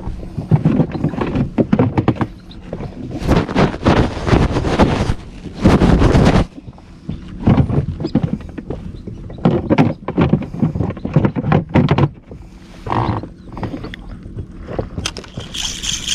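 Water sloshing and knocking against an inflatable boat, in irregular loud bursts with short thuds.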